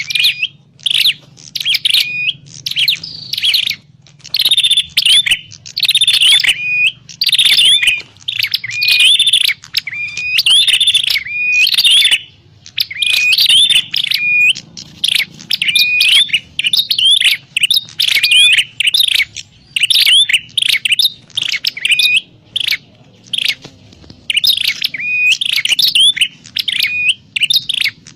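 Prenjak klawu, a prinia, calling in quick, sharp chirps repeated in rapid bursts with brief pauses between them.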